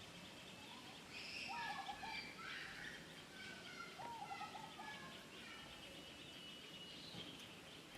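Several birds calling and chirping over a steady background hiss, busiest in the first half, with short runs of quick notes stepping down in pitch and a brief series of arched notes repeated twice.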